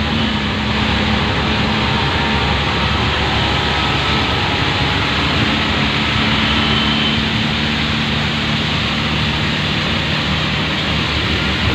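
Auto-rickshaw engine running steadily in the rain, heard from inside the rickshaw: a low engine hum under a dense, even hiss of rain and wet road.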